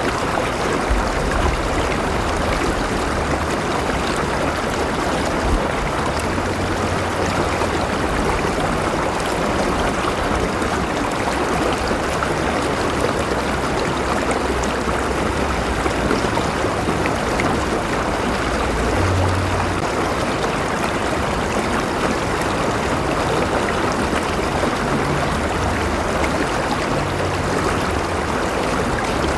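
River water flowing steadily over rocks, a continuous rushing and babbling with a low rumble underneath.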